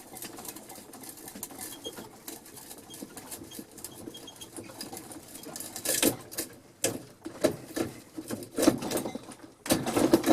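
Vintage hand-crank drill turning an auger bit into wood, with irregular scraping and creaking that gets louder and choppier from about six seconds in. The freshly sharpened bit is still struggling to get started, which the owner thinks could be a worn lead screw.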